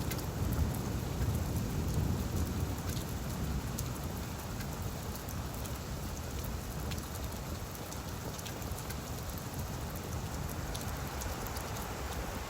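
Steady rain falling on leaves, with scattered sharp drop ticks over an even patter. A low rumble is loudest in the first couple of seconds and then eases off.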